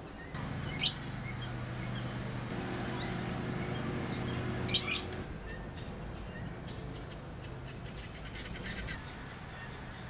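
Short, high bird chirps: one about a second in and two quick ones together near five seconds, over a steady low hum that stops around five seconds.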